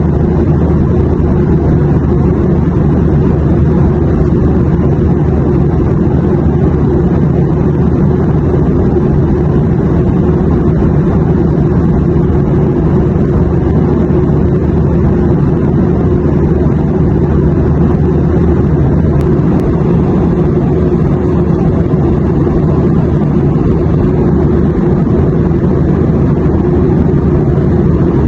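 Airplane engine noise: a steady, low, even drone that does not change.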